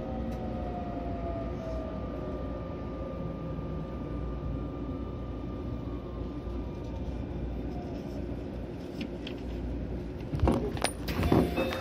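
Keio 9000 series train's Hitachi IGBT VVVF inverter sounding a few slowly falling tones over the rumble of the running train as it slows. Several knocks and clunks come near the end as the train nears its stop.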